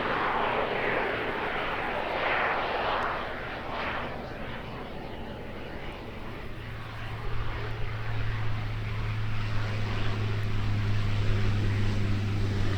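Light propeller aircraft. A broad rushing sound fades over the first few seconds, then a steady low engine drone sets in and grows louder toward the end.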